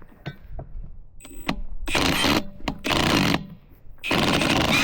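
Impact wrench hammering on a tight wheel bolt in three short bursts, about two, three and four seconds in, after a few light metal clicks.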